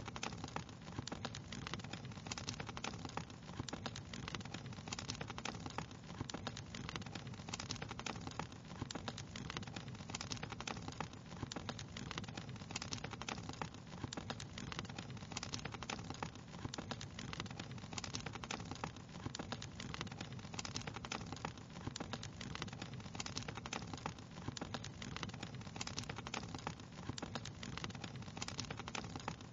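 Wood fire crackling steadily: many small irregular snaps and pops, several a second, over a low, steady rush of burning.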